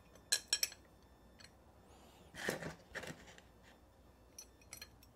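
Small metal parts and tools clinking as engine-mount hardware (studs, washers, nuts) is fitted by hand: a few sharp clinks, then a scrape about halfway and scattered lighter clicks.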